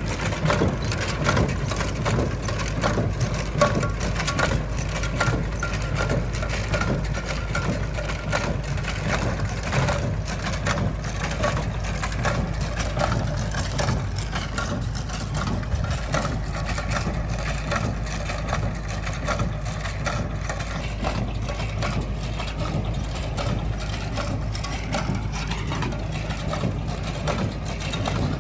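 A tractor engine running steadily, with a rapid clatter and rattle from the machinery it is working.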